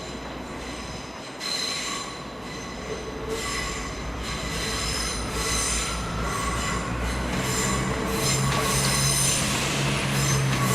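A train's wheels squealing on the rails as it approaches, in repeated high-pitched squeals that grow louder. A low steady hum joins about eight seconds in.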